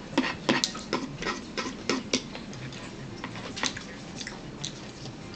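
Chewing of crunchy food close to the microphone: crisp, evenly spaced crunches about three a second, thinning out and fading after about two seconds.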